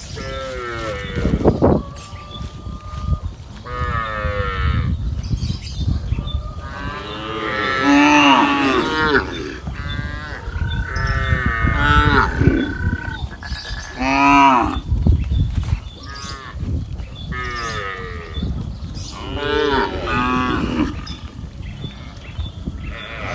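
A herd of cattle mooing again and again, many calls following one another and some overlapping, over a steady low rumble.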